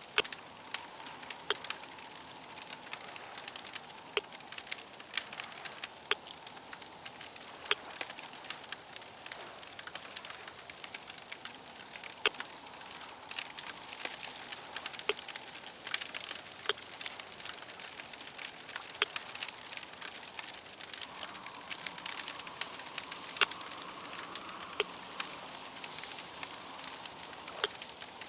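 Crackling fire: a steady hiss with frequent, irregular pops and snaps of varying loudness.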